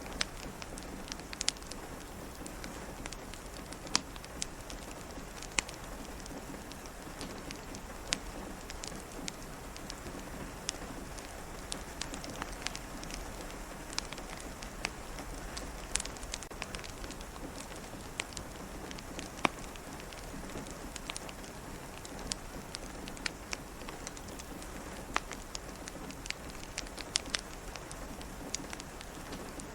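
Steady rain falling, with a crackling wood fire: sharp pops and snaps scattered at irregular moments over the even sound of the rain.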